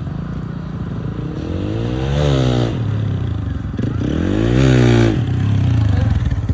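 Motorcycle engine idling, then revved twice, its pitch rising and falling smoothly each time, the second rev louder, before it drops back to idle near the end.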